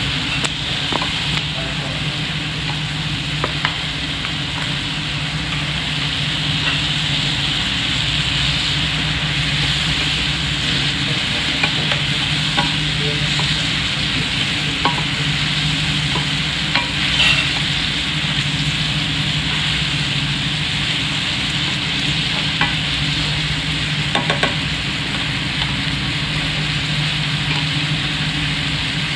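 Beef fried rice sizzling in a nonstick frying pan as a spatula stirs and tosses it, with scattered light scrapes and taps of the spatula against the pan, over a steady low hum.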